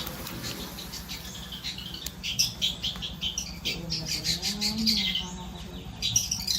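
Long-tailed shrike (cendet) singing a fast, continuous run of chirps and trills, starting about two seconds in, over a low steady hum.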